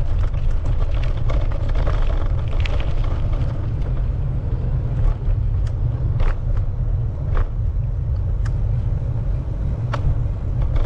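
Heavy wind rumble on the microphone of a moving bicycle, with a few sharp clicks about six, seven and ten seconds in.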